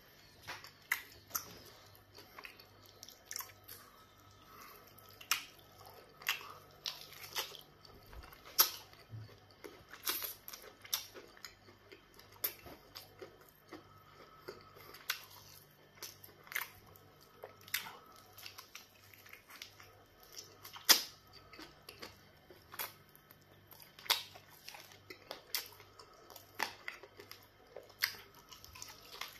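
Close-miked wet chewing and mouth smacks from eating soft pounded yam fufu dipped in black soup, coming as irregular sharp clicks, a few of them much louder.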